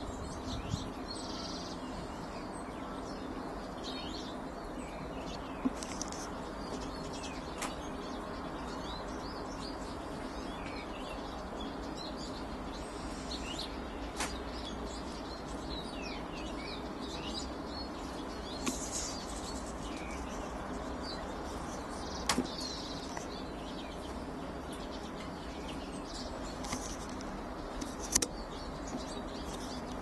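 Small garden birds chirping and twittering now and then over a steady low background noise, with a handful of sharp clicks scattered through.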